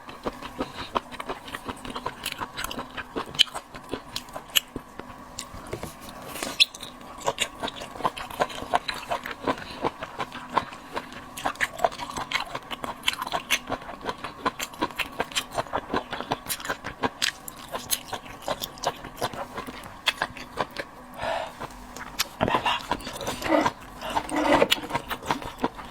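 Close-up mouth sounds of someone eating small octopus: a long run of wet chewing and lip-smacking clicks.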